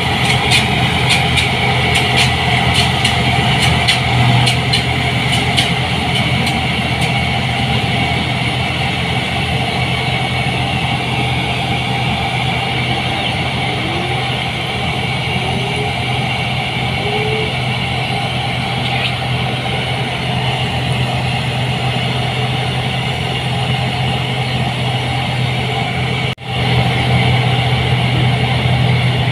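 New Holland 8060 combine harvester running steadily under load, its engine hum loud and even. A quick, regular ticking rides over it for the first several seconds, and the sound breaks off for an instant near the end.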